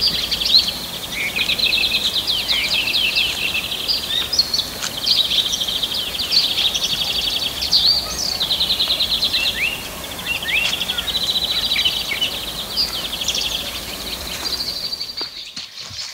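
Several birds chirping, with fast high trills and short rising calls. A low background rumble drops away near the end.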